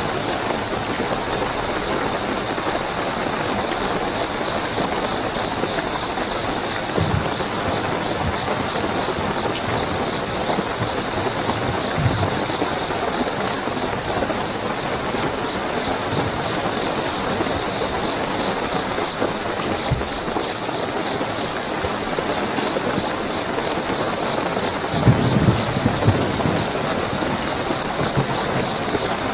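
Steady heavy rainfall with a constant high-pitched cricket trill over it. A few low thuds sound through the rain, a short cluster of them near the end.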